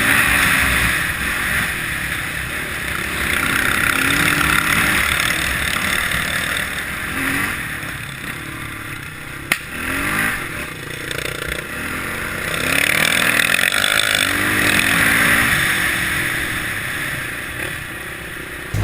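Kawasaki KLX650R's single-cylinder four-stroke engine revving up and down again and again as the throttle is worked on the trail, with wind hiss on the microphone. A single sharp knock about nine and a half seconds in.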